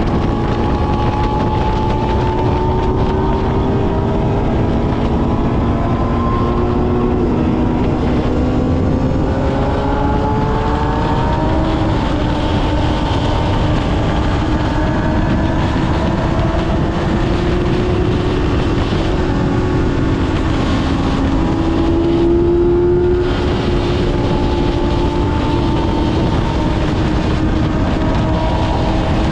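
Kawasaki ZX-6R's inline-four engine running on the move, its pitch gliding slowly up and down with the throttle over a steady rushing noise. The upper range drops out briefly about three-quarters of the way through.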